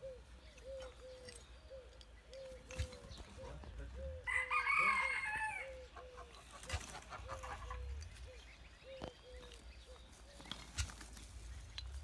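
A rooster crows once, about four seconds in, over a steady run of soft, low clucks coming about twice a second.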